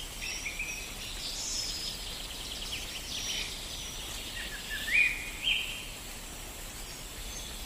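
Birds chirping and whistling high over a steady hiss, with two short rising whistles about five seconds in.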